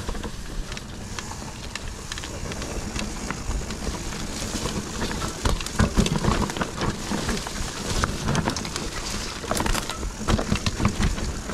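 Mountain bike descending a rough dirt trail: the bike rattles and knocks over bumps, over a low rumble of wind on the microphone. The knocking gets denser and louder about halfway through and again near the end.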